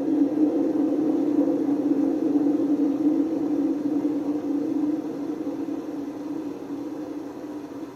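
Panasonic NA127VB6 washing machine running with failed drum bearings: a loud, rough, steady rumble with a steady hum, the sign of bearings worn badly enough to damage the drum spider. The noise fades gradually in the second half.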